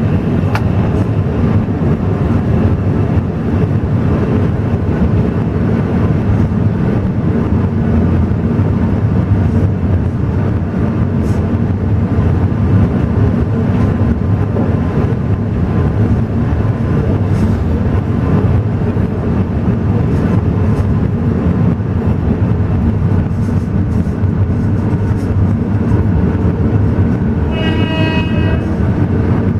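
Alishan Forest Railway train running, a steady rumble of wheels and carriage. A short horn blast sounds near the end.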